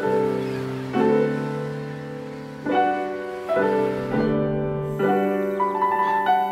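Slow, gentle piano music: chords struck about once a second or so, each ringing on and fading before the next.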